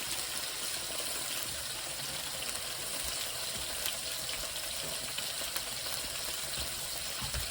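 Chicken frying in a hot pan: a steady sizzle with faint scattered crackles.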